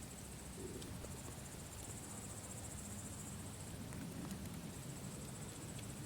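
Campfire burning with a low rumble and a few sharp crackles, over a steady high, rapidly pulsing chirring of crickets.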